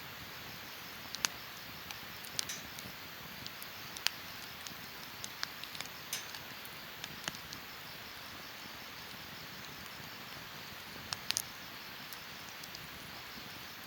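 Wood campfire crackling: sharp pops and snaps come irregularly, about one a second, over a steady soft hiss, with a quick run of three pops a little after eleven seconds.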